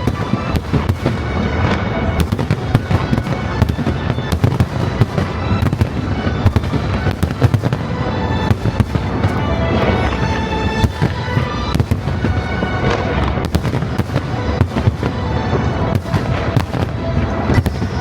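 Fireworks display going off in a rapid, unbroken barrage of sharp bangs and crackling bursts, with music playing underneath.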